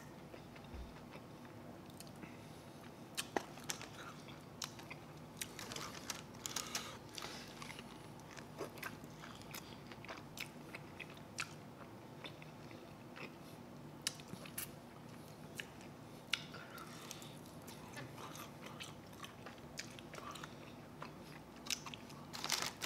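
Close-miked eating of chicken wings: irregular biting and chewing with crisp crunches as meat is pulled off the bone.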